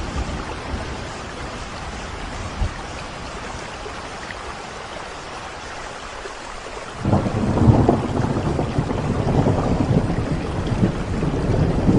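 Steady rain with a roll of thunder breaking in about seven seconds in, a deep rumble that swells and carries on to the end.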